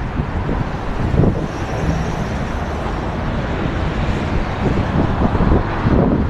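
Wind buffeting the microphone over the steady noise of road traffic, with louder gusts about a second in and again around five to six seconds.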